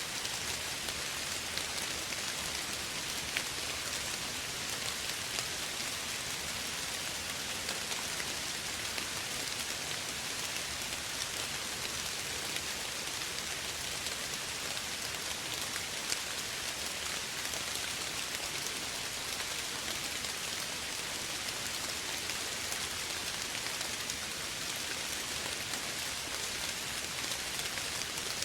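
Steady gentle rain falling, an even hiss with faint scattered drop ticks.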